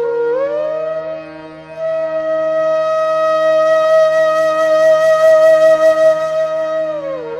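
Background music: a flute melody with sliding notes over a steady drone, holding one long note for about five seconds before sliding down again near the end.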